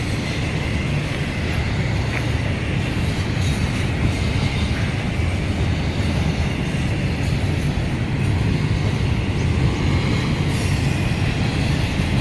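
CSX intermodal freight train's cars rolling past on the rails: a steady rumble of wheels, with a faint high squeal over it.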